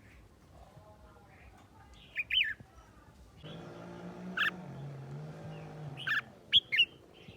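Young red-whiskered bulbul giving short, sharp chirps: a pair about two seconds in, one in the middle and three near the end. A low steady hum runs underneath through the middle.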